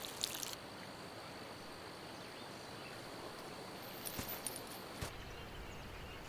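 Quiet outdoor ambience: a faint steady hiss with a few small clicks about four and five seconds in.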